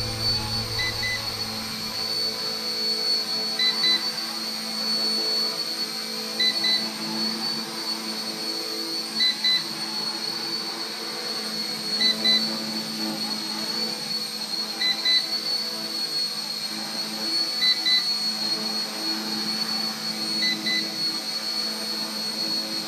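RC Era C032 UH-1 Huey RC helicopter hovering, its motors and rotors running with a steady high whine and hum. A short double beep repeats about every three seconds: the transmitter's low-battery warning.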